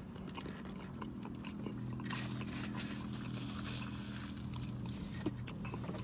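Close-up chewing and biting into a piece of pan pizza, with many small mouth clicks, over a steady low hum.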